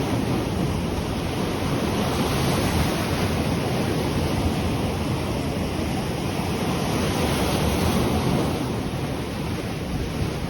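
Ocean waves washing onto the shore in a steady surf, swelling gently in level a couple of times.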